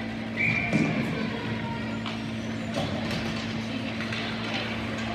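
Ice hockey game sound in an arena over a steady low hum. A short high tone comes about half a second in, and scattered clicks and knocks follow.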